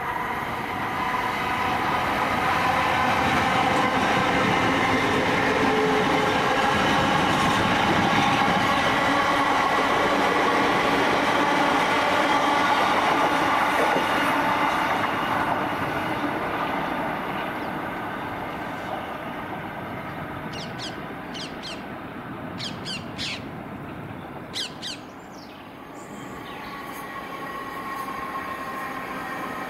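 A passenger train running through a station, its steady motor tones and wheel-on-rail noise loud for the first half and then fading away. A few short, high chirps sound about two thirds of the way in. Near the end another train's sound starts building.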